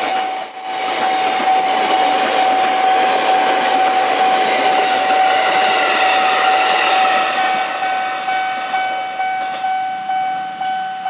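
Electric commuter train passing close by, a dense rush of wheels on rail with a steady high tone sounding over it. In the last few seconds, as the rear cars go by, the rush thins and regular knocks of the wheels over rail joints come through about twice a second, then the sound cuts off suddenly.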